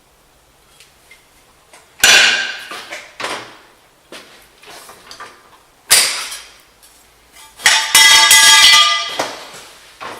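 Metal objects dropped, clattering and ringing. There is a sharp clang about two seconds in and another about six seconds in, then a longer ringing clatter lasting over a second near the end.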